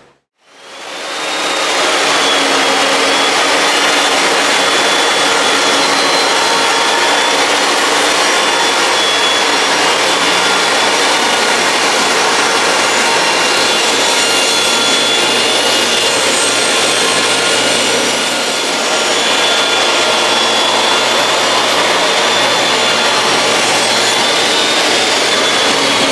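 Table saw starting up and running, with a steady high whine, while cutting boards at a 17-degree bevel. The sound eases briefly about two-thirds of the way through.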